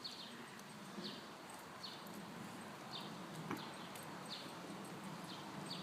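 A bird chirping over and over, short falling chirps roughly once a second, over a steady hiss of rain.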